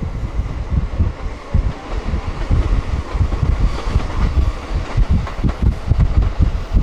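Running noise inside a JR Utsunomiya Line commuter train at speed: a steady rumble from the wheels and track, with uneven low buffeting throughout.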